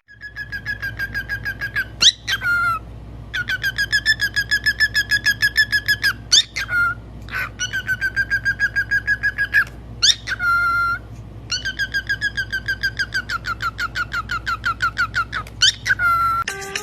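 A pet parrot whistling long runs of rapid, even-pitched pulsed notes, about seven a second, broken now and then by short swooping whistles.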